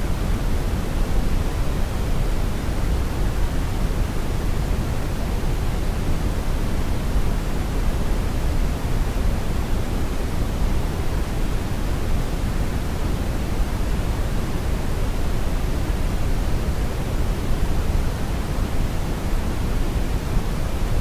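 Steady brown noise: an even, deep rushing hiss, strongest in the bass and falling away toward the treble, with no changes or events.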